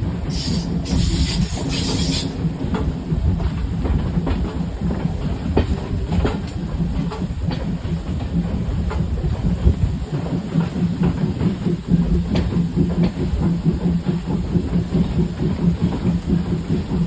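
A passenger train hauled by a steam locomotive running along the track. There is a steady low rumble with scattered clicks of the wheels over rail joints, and a high hiss during the first two seconds.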